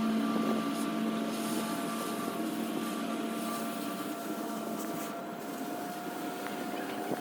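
A machine running steadily: an even hum with a few held tones and a hissing wash of noise.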